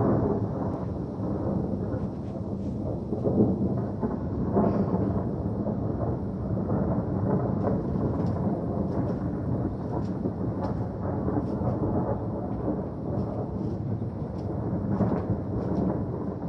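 Rolling thunder from an approaching thunderstorm, a continuous low rumble that swells several times, with faint scattered ticks in the second half.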